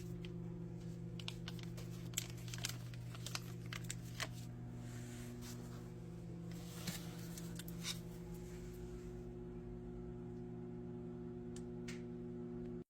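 Scattered light clicks, ticks and rustles of hands handling a refrigerator display control board and plugging its wire connectors, over a steady low electrical hum.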